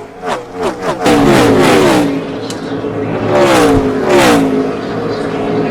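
NASCAR Cup stock cars' V8 engines at racing speed. Several cars flash past in the first second, each with a quick drop in pitch. Then one louder engine takes over, its pitch falling, rising and falling again before holding steady.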